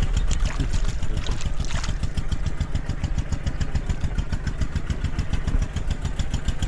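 Small engine running steadily at an even speed, its firing strokes coming fast and regular.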